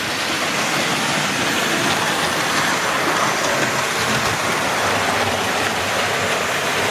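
Model Dapol class N2 tank locomotive running past with a heavy train, its motor and the wheels of the loco and wagons on the model track making a steady rolling noise.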